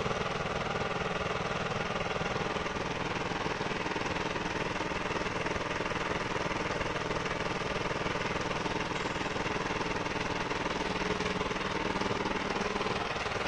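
Sonalika DI 750 tractor's diesel engine running steadily with a fast, even chugging pulse. A steady low hum under it drops away near the end.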